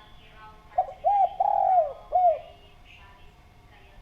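Spotted dove (derkuku) giving one cooing phrase about a second in: a couple of quick lead-in notes, then three coos, the middle one the longest.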